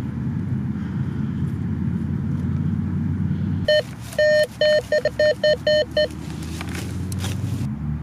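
Metal detector sounding a quick run of about eight short beeps over a buried metal target, starting about three and a half seconds in, with a short stretch of scraping right after. A steady low rumble, like traffic, runs underneath.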